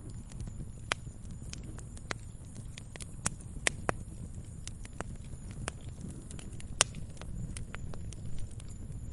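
Wood fire crackling in a fireplace: irregular sharp pops and snaps over a steady low rumble of burning, with the loudest pops about three and a half and seven seconds in.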